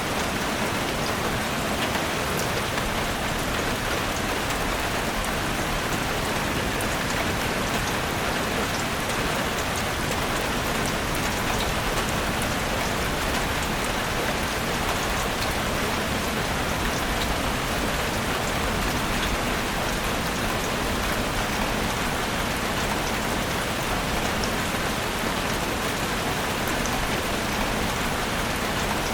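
Steady rain falling in a forest, a constant even patter with scattered drop ticks.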